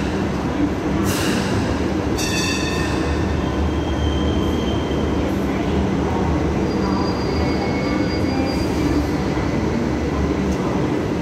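Hong Kong Light Rail Phase III two-car train running in slowly towards its terminus platform, with a steady low rumble. Its wheels squeal in short high tones several times as it comes in.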